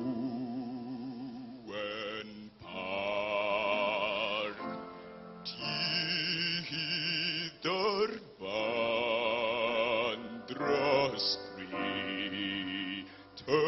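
Music: a voice singing long held notes with marked vibrato, in phrases of a few seconds each separated by short breaks.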